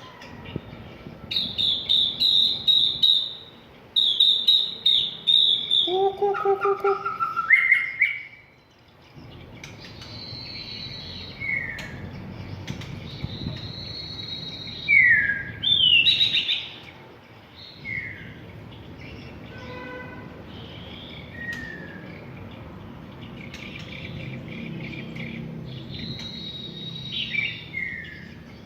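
White-rumped shama singing its fighting song. It opens with loud, rapid runs of clear high notes and a phrase that steps upward, then turns to softer whistled phrases with short downward slurs.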